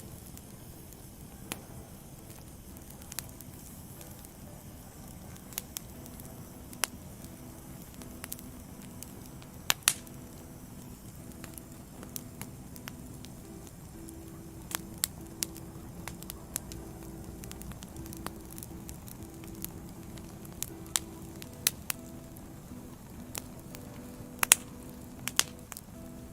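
Wood fire crackling: irregular sharp pops and snaps from burning logs over a soft hiss, with a few louder pops about ten seconds in and near the end.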